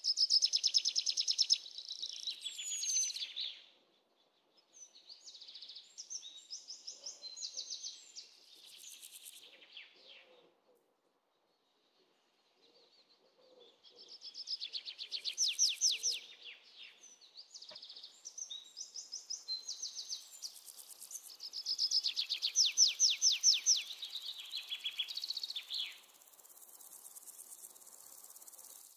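Small birds singing in fast, high trills and chattering phrases, in several bouts with two short pauses.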